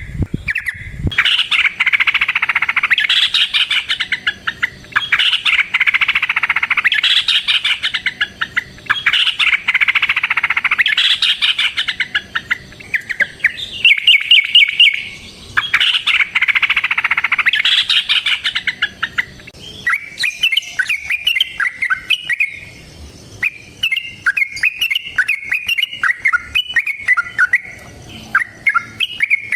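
Yellow-vented bulbul (trucukan) singing loud, rapid chattering phrases of about two seconds each, one after another with short breaks. From about two-thirds of the way through, the song changes to shorter, choppier notes.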